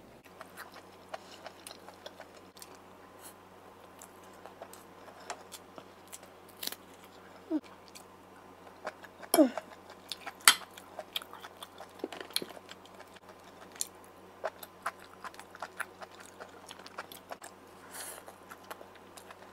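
Close-miked chewing of boiled pork and fried vermicelli, with wet mouth sounds and scattered sharp clicks and crunches. The loudest clicks come about halfway through.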